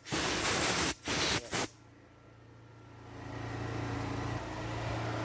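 Air blower drying a freshly washed motorcycle, blowing water out of its cracks and crevices. It gives loud blasts of rushing air with two short breaks, then falls quiet. Then a steadier rush of air with a low motor hum builds up about two seconds in and holds.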